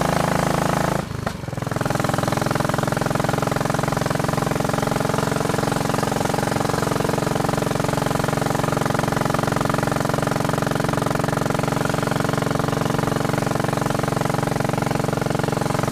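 Royal Enfield Bullet Machismo 500's single-cylinder four-stroke engine running under way, a steady even beat. The engine note drops briefly about a second in, then picks up and runs evenly again.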